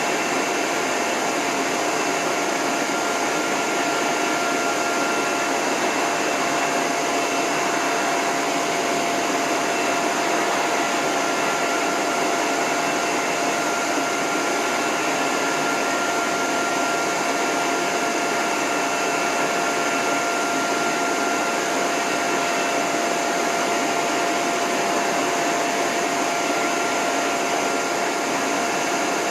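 Dog-grooming hose dryer running steadily, with the end nozzle off the hose: an even rush of blown air with a faint steady whine from its motor.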